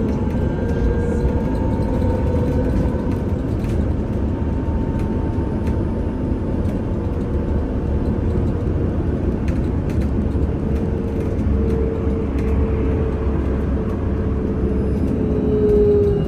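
VMZ Avangard trolleybus under way: the electric traction drive's whine over a steady road and tyre rumble. The whine falls in pitch near the end as the trolleybus slows.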